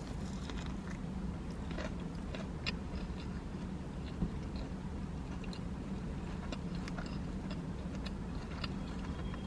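Biting into and chewing a breaded chicken tender sandwich on a soft brioche bun, with small, scattered wet clicks of chewing over a steady low hum.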